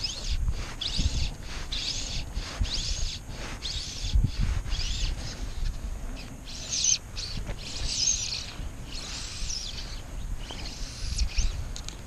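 Small birds chirping in quick, repeated sweeping notes, several a second, loudest a little past the middle. Underneath runs a low, uneven rumble of wind on the microphone.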